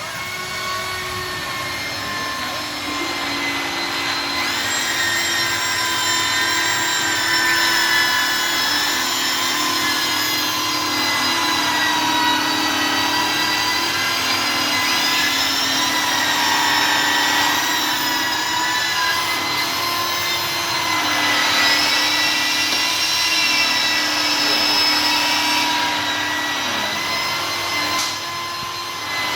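Electric glass-polishing machine running steadily with a high motor whine. Its pitch wavers a little and rises for a few seconds about twenty seconds in.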